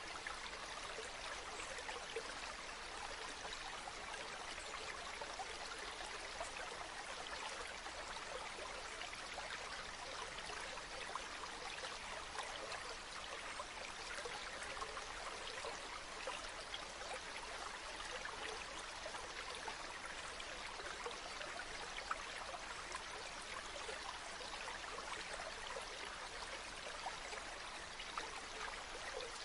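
A river flowing steadily: an even, unchanging wash of running water.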